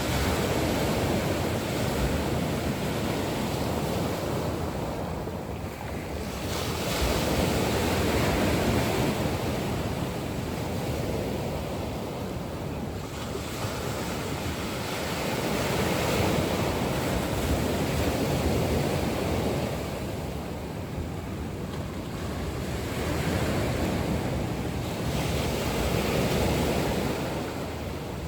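Sea waves breaking on a shore: a continuous surf wash that swells and eases every few seconds as each wave comes in.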